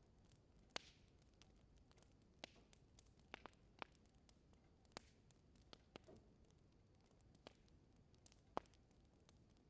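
Wood fire burning in a fireplace, crackling faintly: about a dozen scattered sharp snaps and pops over a low hiss, the loudest about a second in and near the end.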